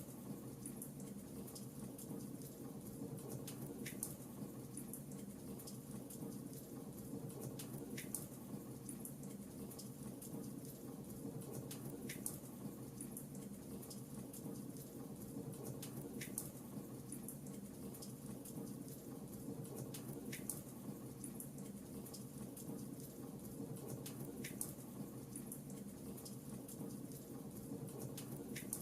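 Fireplace crackling faintly: small scattered pops and snaps over a low steady rumble, with a sharper pop about every four seconds.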